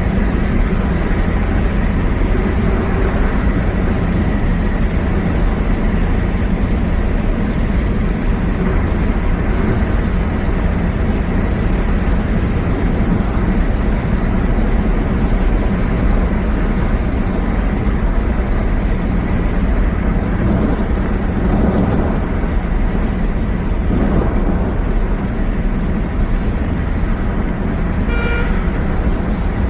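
Steady road noise of a vehicle driving through a highway tunnel, a continuous low rumble of engine and tyres, with a short horn toot near the end.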